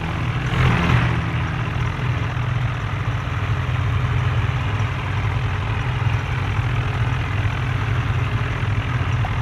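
Tractor engine running steadily at low revs, with a brief rush of noise about half a second in.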